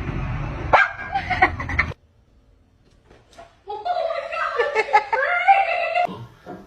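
A dog yelping twice in the first two seconds, then, after a brief silent gap, a longer drawn-out whine or howl that wavers in pitch.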